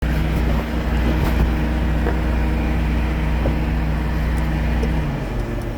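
Tow truck engine running steadily with a low hum, which drops in pitch and eases off about five seconds in.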